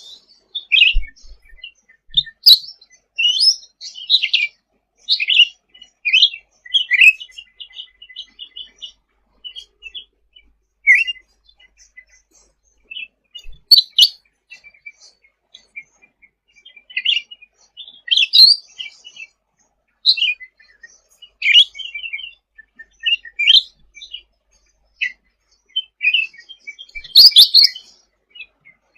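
Cucak ranting bird singing vigorously: a quick run of short, high chirps and twittering phrases with short gaps between them, and a few louder, sharper notes along the way.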